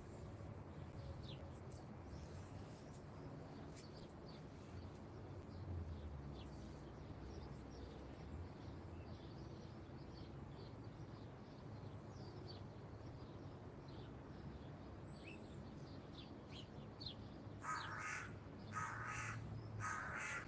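A crow cawing three times near the end, about a second apart, over faint chirps of small birds. A low steady rumble of distant motorway traffic lies underneath.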